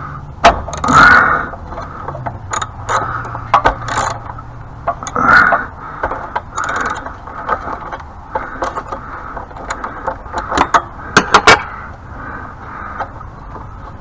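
Socket ratchet being worked on a binding bolt: irregular metallic clicks and scrapes, with a quick run of clicks about three-quarters of the way through.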